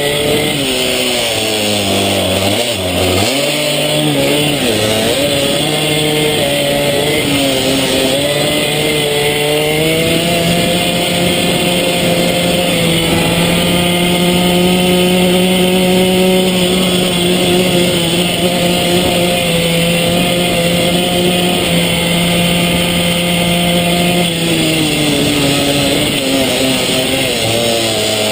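Small-displacement mini moto engine running hard around a track: the revs drop briefly a few seconds in, climb again about ten seconds in, hold at a high steady pitch for a long straight stretch, then fall away near the end.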